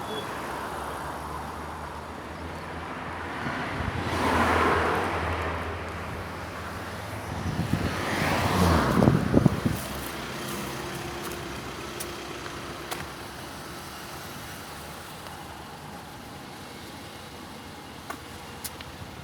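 Road traffic going by: two vehicles pass, the louder one about eight to nine seconds in with a falling pitch as it goes past, over a steady low engine hum.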